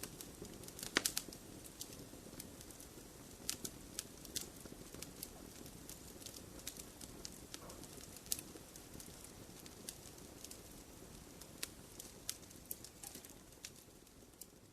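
Wood fire crackling and popping in a fireplace: irregular sharp snaps, a quick cluster about a second in, over a low steady hiss of the flames.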